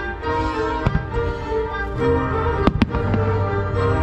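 Aerial firework shells bursting over music: a sharp bang about a second in and two more close together near three seconds, with steady music playing underneath.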